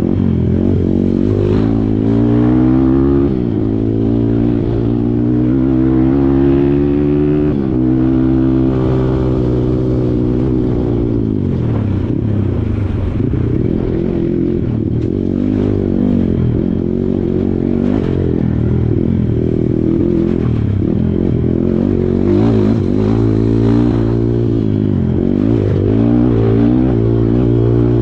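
Kawasaki KLX140 dirt bike's single-cylinder four-stroke engine running hard off-road, its revs climbing and dropping again and again as the throttle is opened and closed.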